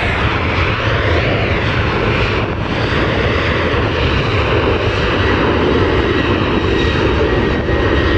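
Aircraft engines running loud and steady, with a faint high whine that comes in about five seconds in.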